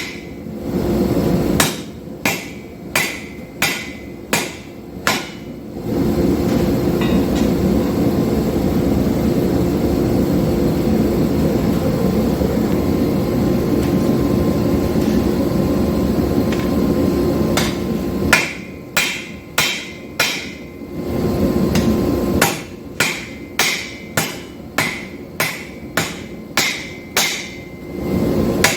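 Hand hammer striking hot 5160 steel on an anvil, evenly paced blows about one and a half a second, as the knife blank is forged. In the middle, for about twelve seconds, the hammering stops and a steady rushing noise of the forge takes over, then the blows resume.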